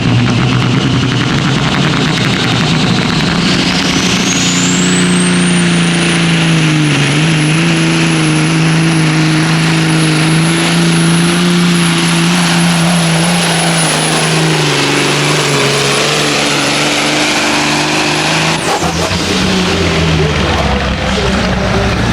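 Semi truck diesel engine running hard under full load in a truck pull, with a high whistle that climbs over a couple of seconds about four seconds in, holds steady, and cuts off suddenly near the end as the load comes off.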